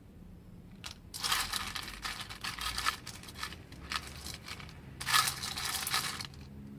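Crinkling, rustling handling noise, like packaging or a bag being rummaged through, in two stretches of a second or two each, with a single click just before the first.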